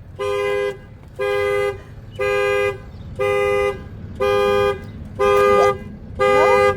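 Car alarm sounding through the horn of a Cadillac XT5: a two-tone horn blares in even half-second blasts about once a second, the alarm set off as the locked car is broken into from the back without the key.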